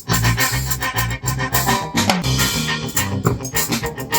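Live band playing upbeat music with drum kit and guitar, a steady beat throughout.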